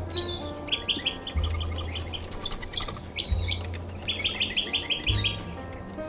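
Birds chirping, with quick runs of high chirps about a second in and again around four seconds in, over soft background music with low held notes.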